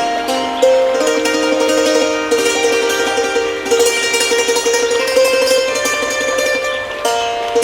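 Thai khim, a hammered dulcimer, played: its struck metal strings ring out a melody of quick notes, with a long tremolo roll on one note through the middle.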